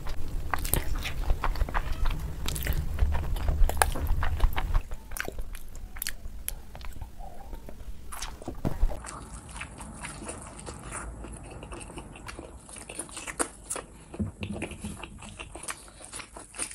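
Close-miked eating sounds of eggs eaten by hand: wet chewing, lip smacks and many small mouth clicks. Louder for the first few seconds, then quieter after a change of clip.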